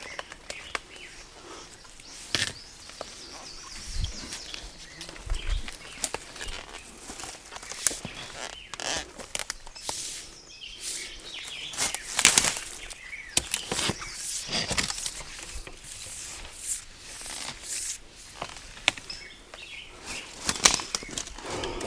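Irregular rustling, scraping and scattered knocks of hands-on work, with a couple of dull low thumps about four and five seconds in.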